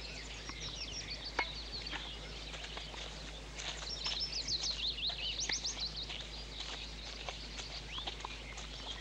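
Small birds chirping and twittering in quick rising and falling calls, busiest around the middle, over a low steady hum.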